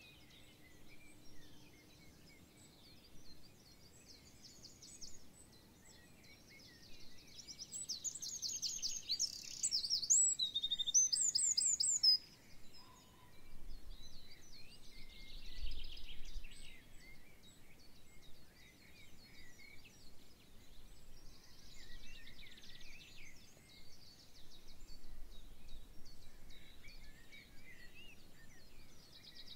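Birds singing: scattered chirps and trills throughout, with a louder stretch of fast, trilled song in the middle that stops abruptly.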